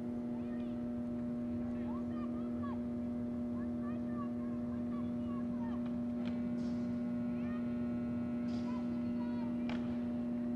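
A steady low electrical-sounding hum throughout, with faint distant shouts and a few sharp knocks in the second half.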